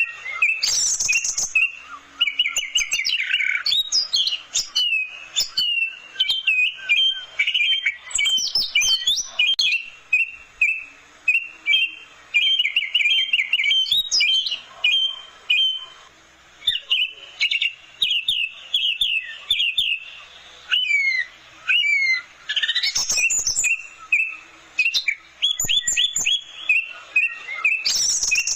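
Orange-headed thrush (anis merah) singing a long, varied song of fast repeated notes, trills and whistled glides, in phrases broken by short pauses.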